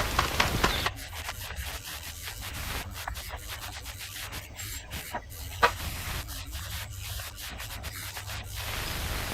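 Irregular rubbing and scraping strokes of a hand tool working straw render over a wall surface, busier in the first second and again near the end, with one sharp click about midway. A low steady hum runs underneath.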